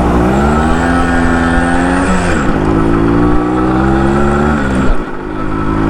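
Yamaha RX 100 two-stroke single-cylinder motorcycle engine accelerating: its pitch climbs, drops sharply about two seconds in at a gear change, runs on at a steady pitch, then falls away near the end as the throttle closes.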